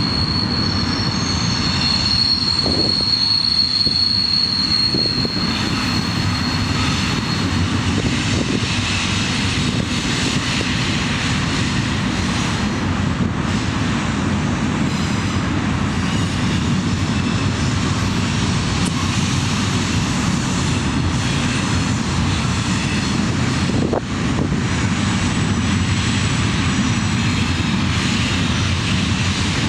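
CSX diesel locomotive running past with a steady rumble. A thin, high, steady squeal sounds over it for the first five seconds or so.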